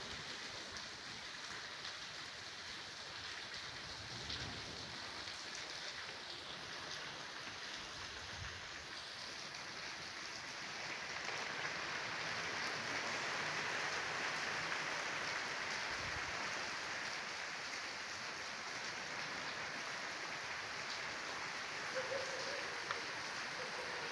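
Rain falling steadily, somewhat louder for a few seconds about halfway through.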